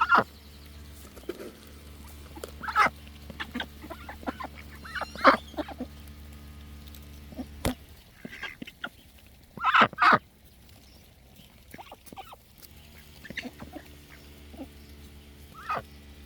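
Ducks calling now and then, short quacks and honking calls with pauses between. A faint low hum underneath stops about eight seconds in.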